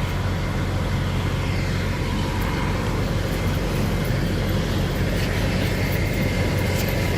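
Steady motor vehicle noise: a constant low engine and road rumble with no change in pace.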